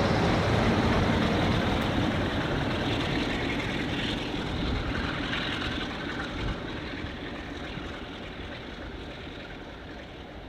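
Train rumbling past and pulling away, the noise fading steadily as it recedes.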